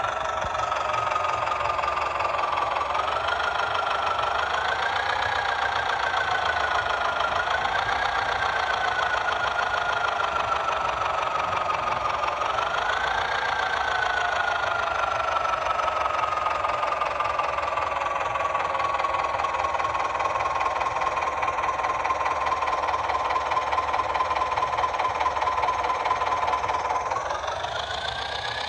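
Small electric motor and gears of a DIY toy tractor running with a continuous whine. Its pitch steps up a few times, then slides slowly down for much of the time, and rises sharply near the end.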